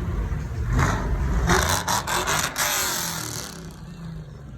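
A car engine revving hard, then a loud rushing burst with a few sharp cracks about two seconds in, before the sound dies away.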